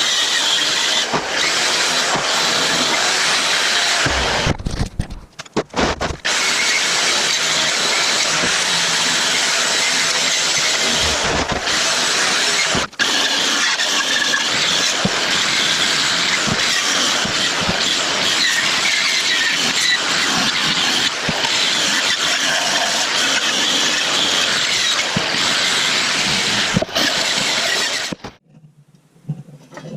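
Power tool working the metal of a cast-iron wood stove: a steady, harsh noise with short breaks about five seconds in and near thirteen seconds, cutting off shortly before the end.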